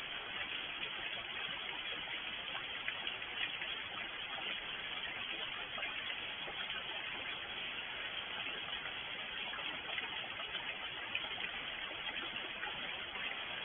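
Steady rain falling: an even hiss flecked with many small drop taps.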